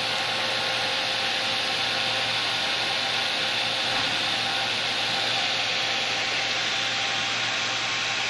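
A 5 hp three-phase electric motor running steadily at constant speed, giving an even whir with a steady hum under it.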